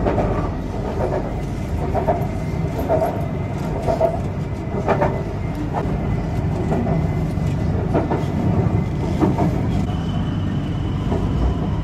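BTS Skytrain electric train running, heard from inside the carriage: a steady rumble of the train in motion, with a thin high whine coming in near the end.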